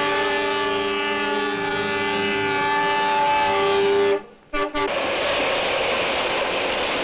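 A sustained brass chord of orchestral film music breaks off sharply about four seconds in. After a short gap, the steady rushing noise of a freight train rolling past close by takes over.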